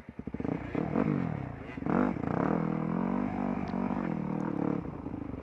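Dirt bike engine revving up and pulling away, its pitch climbing and dropping back a few times.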